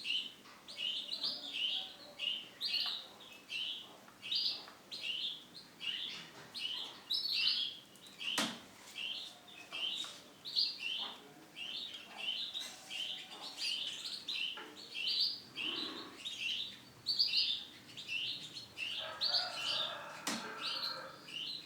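Male domestic canary singing in a long run of short, bright chirped phrases, about two a second, with a sharp click about eight seconds in.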